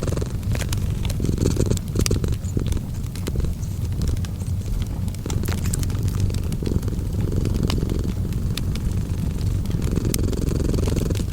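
A cat purring steadily: a continuous low purr that swells every few seconds. Over it come scattered sharp pops and snaps of a wood fire crackling.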